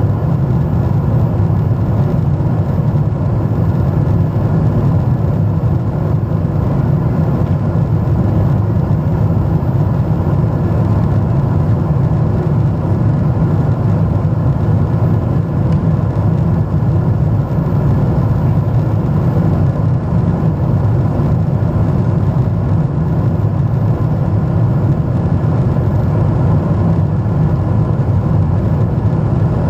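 Steady jet airliner cabin noise in flight: engine and airflow rumble heard from inside the passenger cabin, deep and unbroken, with faint steady tones above it.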